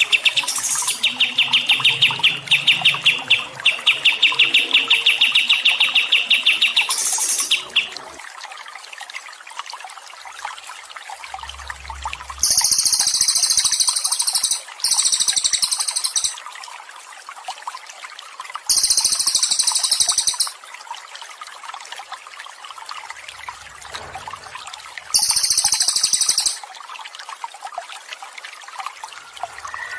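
Songbird calls over a steady trickle of water: a rapid, fast-pulsed trill for the first seven seconds or so, then four short bursts of high chattering in the second half.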